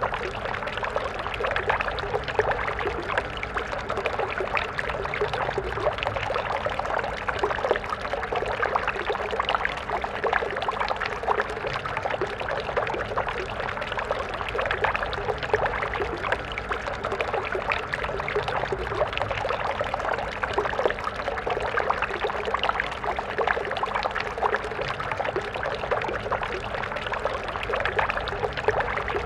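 Water stream flowing steadily, a continuous splashing and trickling with fine flickers of small droplets and no pauses.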